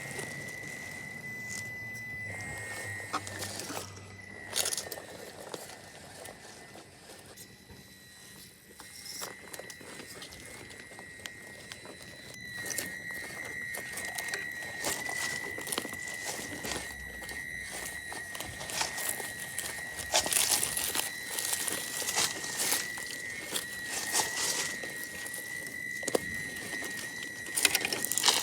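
A Traxxas TRX4M Bronco RC crawler driving over dirt: a high, steady whine from its small electric drivetrain, with crackling and crunching from the tyres on the ground that gets busier about halfway through.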